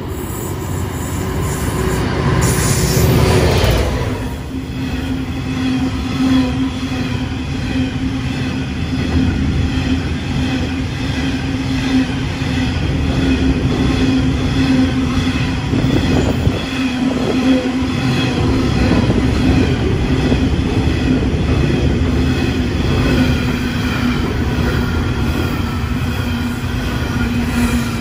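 Diesel-hauled freight train running past: the locomotives go by loudly in the first few seconds, then a long string of covered hopper wagons rolls through with a steady rumble and a steady tone above it, which cut off at the end.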